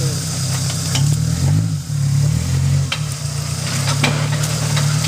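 Suzuki Samurai's four-cylinder engine running at low revs while crawling over rock, its note shifting as the throttle changes about two seconds in, with scattered sharp clicks and a crackle over it.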